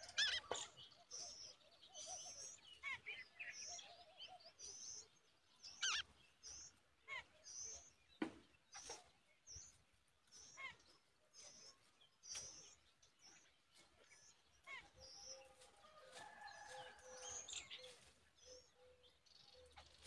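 Faint bird chirps, short high notes repeated every half second to a second, with a lower, longer call with several pitches stacked and a run of short low pulses in the background near the end.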